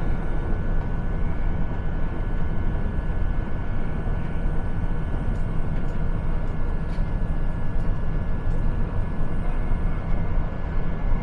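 Steady low rumble of an electric Matangi commuter train running along the track, heard from inside the carriage, with a faint steady high whine running through it.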